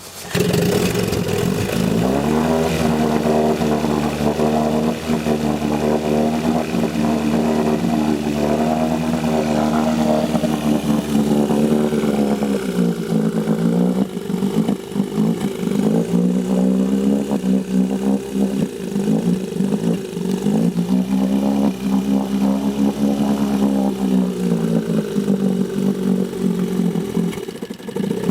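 1972 Johnson 20 hp two-stroke outboard motor catching at once and running on its first start. Engine speed drops about twelve seconds in, picks up again around twenty seconds, then falls back.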